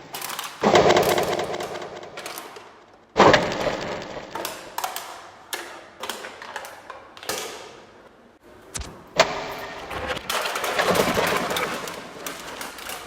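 Tin objects being knocked and clattered: a series of sudden metallic impacts, each with a ringing decay. Loud crashes come about a second in, at about three seconds and again around nine seconds, followed by a longer stretch of rattling.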